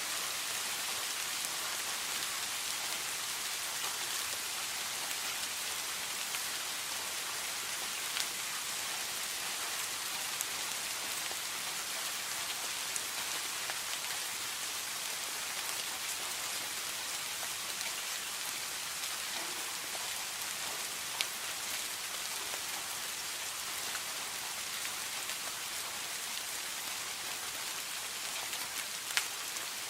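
Steady rain with a dense hiss of falling drops and scattered sharper drips standing out now and then.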